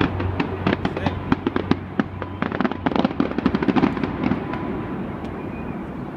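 Fireworks display going off: a dense flurry of sharp cracks and bangs that thins out after about four seconds.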